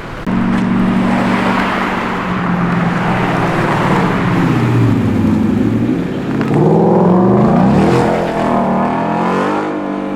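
A car engine running loud and close, starting up abruptly, holding steady revs, dipping in pitch about halfway through, then revving up in several rising sweeps as it accelerates.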